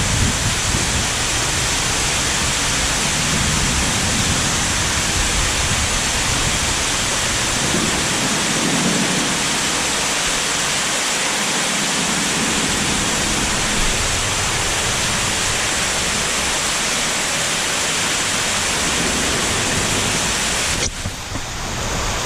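Steady rushing and splashing of water, an even hiss that drops briefly near the end.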